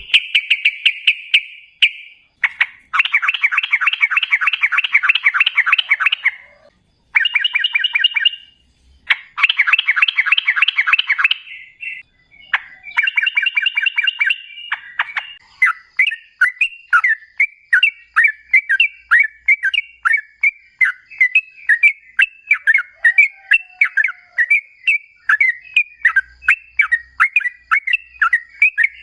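Yellow-vented bulbul (trucukan) singing. It starts with fast trilled bursts a few seconds long, separated by short gaps. From about halfway through it gives a steady run of quick chirping notes, several a second.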